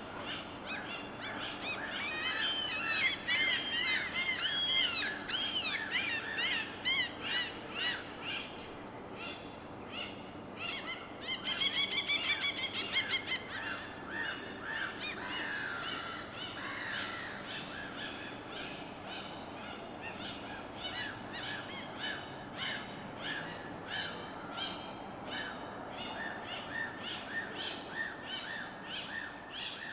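Several birds calling over a steady low background: a dense run of rapid chirps a couple of seconds in, a louder harsh call around the middle, then short calls repeating about twice a second.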